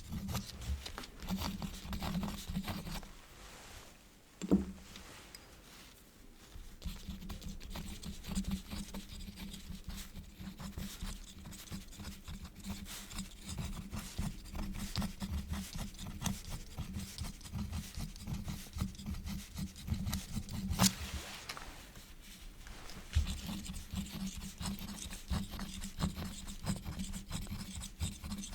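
Quill nib scratching across paper in quick, short strokes. Near the start the writing pauses briefly, with a single sharp knock in the lull, and a sharp click comes about twenty-one seconds in.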